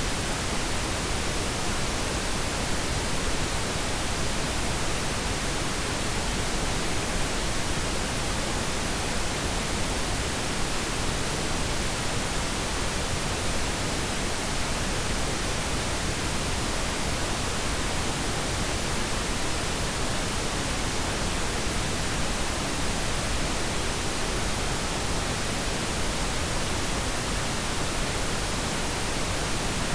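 Steady synthetic pink noise: an even, unchanging hiss spread across the whole range.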